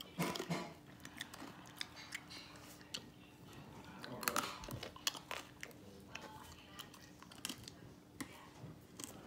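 A person chewing a mouthful of crunchy roasted corn kernels: a string of irregular crunches close to the microphone, loudest just after the start and again about four seconds in.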